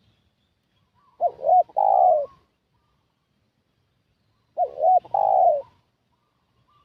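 Spotted dove cooing: two call phrases about three seconds apart, each made of two short notes and then a longer coo that falls in pitch.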